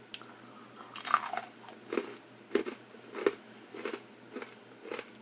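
A person chewing food, a regular chew roughly every half second that begins about a second in.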